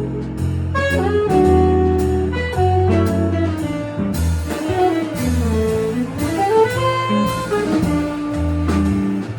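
A jazz quartet playing live: a lead melody that bends and glides in pitch, over walking low bass notes and drums.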